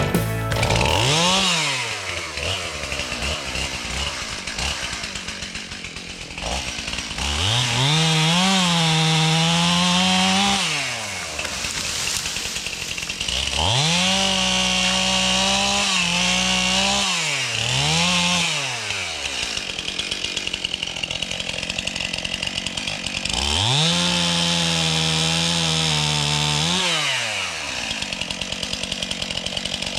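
Two-stroke chainsaw revved to full throttle and held for a few seconds at a time, about four times, dropping back to a rapid idle patter between runs, as in cutting through wood in separate passes.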